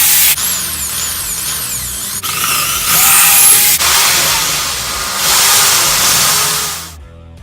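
Power drill running in several spurts, with abrupt cuts between them and a whine that rises and falls in one spurt, stopping sharply about seven seconds in. It is drilling into the birdhouse to mount a homemade wrench latch.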